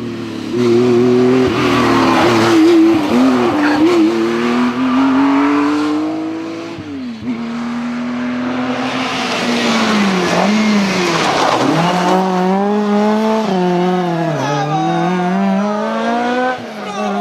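Historic rally car engine revving hard through the gears, its pitch climbing and then dropping sharply at several shifts or lifts, with tyre squeal.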